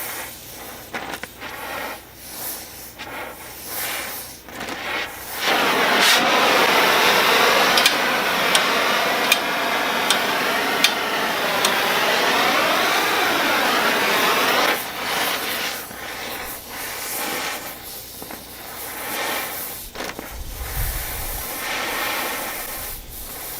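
Oxy-acetylene torch with a rosebud heating tip burning with a steady hiss, much louder from about six seconds in until about fifteen seconds in.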